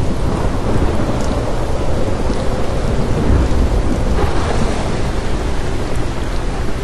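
Steady rain with a constant deep rumble underneath, which swells briefly about three seconds in.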